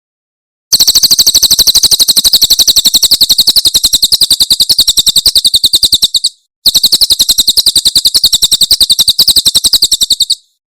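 A cililin bird's 'tembakan' call: a rapid-fire string of high, evenly spaced notes, about a dozen a second, in two long runs with a short break about six seconds in.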